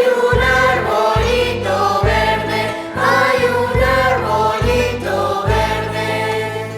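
Children's choir singing a huayno, several voices together over instrumental accompaniment with a steady line of low bass notes.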